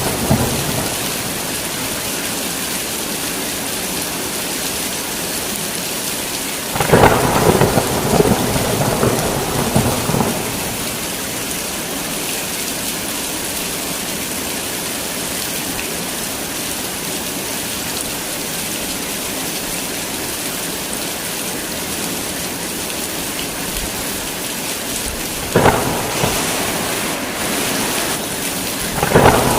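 Heavy rain falling steadily, with thunder cracking and rumbling about a quarter of the way in, then sharp claps again near the end.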